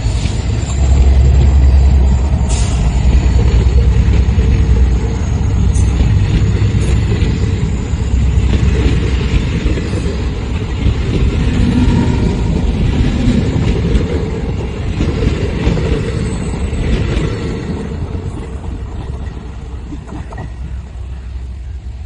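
Passenger coaches of a diesel-hauled train passing close by at speed, wheels rumbling on the rails. The sound fades as the end of the train moves away near the end.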